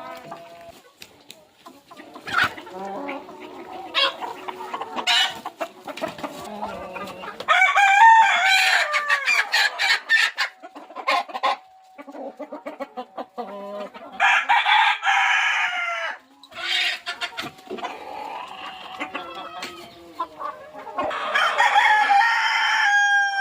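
Desi chickens clucking, with a rooster crowing three times, each crow two to three seconds long.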